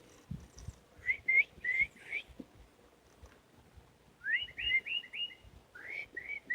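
A songbird calling in quick runs of short, rising whistled notes, three runs of about four notes each.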